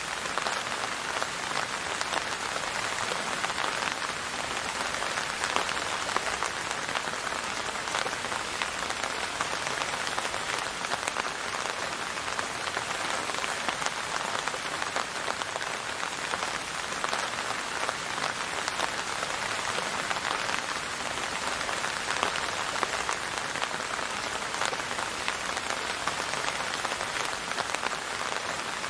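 Steady rain falling and pattering on a surface, an even hiss full of fine drop ticks with no music or thunder.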